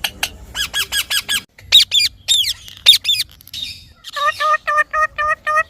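Indian ringneck parakeet calling in fast repeated shrill notes, with a few louder squawks in the middle and a quick even run of about five calls a second near the end.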